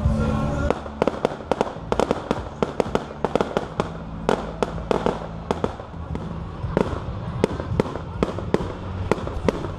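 A rapid, irregular series of sharp pops and cracks, several a second, over a low rumble.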